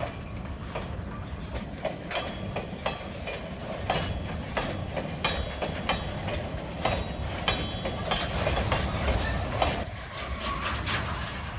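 Freight train of steel limestone hopper wagons rolling along the track: a steady low rumble with irregular metallic clacks from wheels over rail joints, growing louder partway through.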